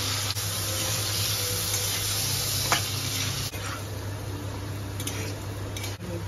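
Potato cubes sizzling in hot oil in a steel kadai while a steel spatula stirs and scrapes them. A sharp metal clink of the spatula on the pan comes about two and a half seconds in, with a few lighter taps near the end.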